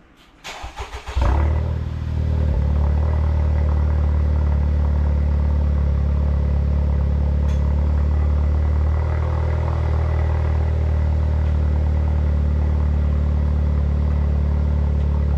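Honda Civic Type R's K20 turbocharged four-cylinder, breathing through a new Injen stainless cat-back exhaust, cranking and starting from cold about a second in with a brief flare. It then settles into a steady cold idle that eases slightly in speed and level about nine seconds in.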